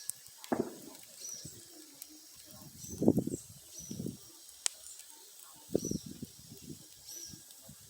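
Bonfire burning with irregular crackling and one sharp pop about halfway through. A faint high chirp repeats every second or so in the background.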